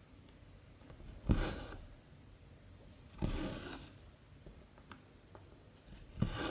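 Cotton embroidery thread pulled through 14-count cross-stitch fabric: three pulls about two seconds apart, each a short rubbing swish that starts sharply and fades, with faint ticks between them.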